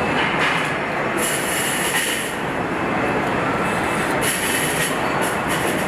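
Steady mechanical din of a vehicle assembly line: machinery and conveyors rattling and rumbling, with short stretches of hiss about a second in and again about four seconds in.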